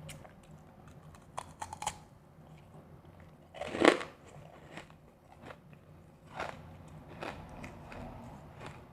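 Someone biting and chewing refrozen powdery ice: irregular crunches, the loudest a big bite about four seconds in.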